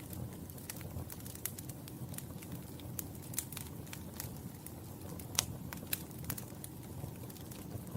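Wood fire burning in a fireplace: a steady low rush of flames with scattered sharp crackles and pops, the loudest pop about five and a half seconds in.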